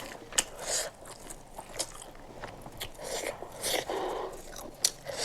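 Close-miked eating: a person biting and chewing, with wet mouth clicks, smacks and short crunchy bites at irregular intervals.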